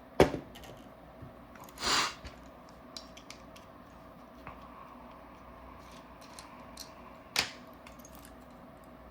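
Paintball marker parts being handled during reassembly: a sharp click just after the start, a short scrape about two seconds in, scattered light ticks, and another sharp knock at about seven and a half seconds.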